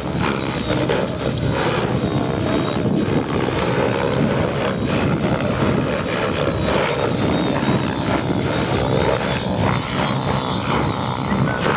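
Radio-controlled 3D helicopter flying: a steady, loud rotor and motor sound.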